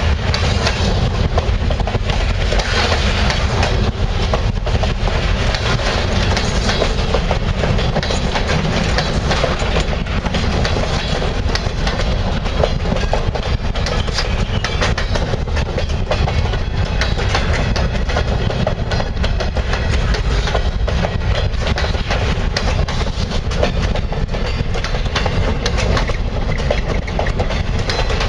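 Freight train rolling past, its wheels clicking over the rail joints above a steady loud rumble.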